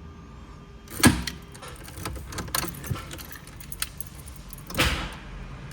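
Handling noises with a metallic clatter: a sharp clack about a second in, scattered light clicks, and a longer rattling clatter near the end.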